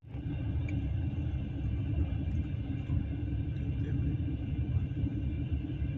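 Steady low rumble and hum of a moving passenger train, heard from inside the carriage.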